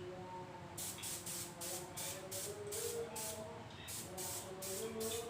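Aerosol spray paint can sprayed in quick short bursts, about three a second, with a short pause just before four seconds in.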